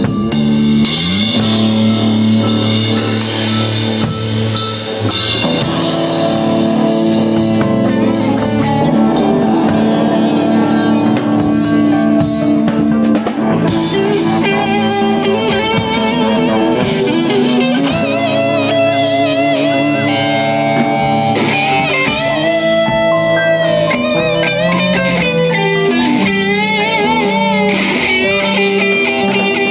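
Rock band playing live: electric guitar and drum kit, with a lead guitar line of bent, wavering notes from about halfway through.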